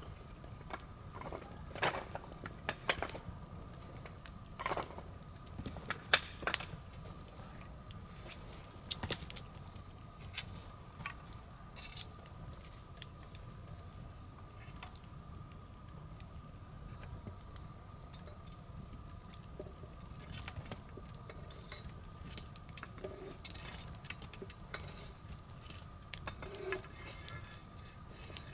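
Wood bonfire crackling: irregular sharp pops and snaps, a few louder ones in the first seven seconds and again near the end, over a low steady rumble of the burning fire.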